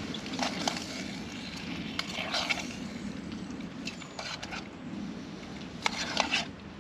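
A camp pot of bacon simmering over a Trangia spirit burner: a steady low rumble, with a few short metallic scrapes and clicks at irregular moments.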